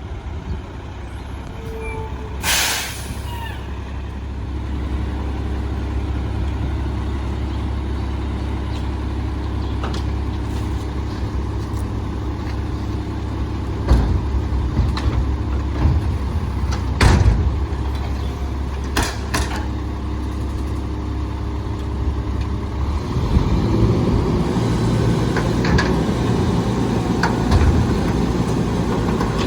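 Volvo Xpeditor garbage truck's diesel engine running steadily, with a short air brake hiss about two and a half seconds in and a few sharp knocks past the middle. Near the end the engine runs louder and faster.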